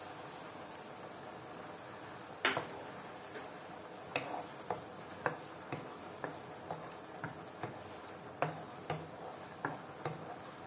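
Kitchen utensil knocks: one sharp clack, then a run of light clicks about twice a second, over a steady faint hiss.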